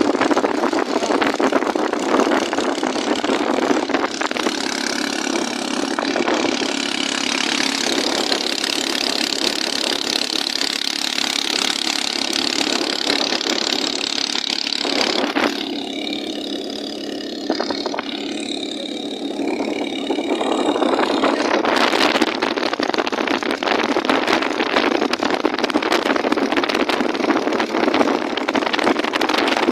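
An engine running steadily under way. Its sound drops back for a few seconds past the middle, then comes up again.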